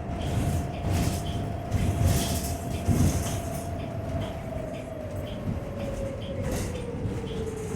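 Electric traction motor whine of a New Flyer XT40 trolleybus with Vossloh Kiepe drive, heard from inside the bus: a single tone that slowly falls in pitch as the bus slows, over road rumble and cabin rattles.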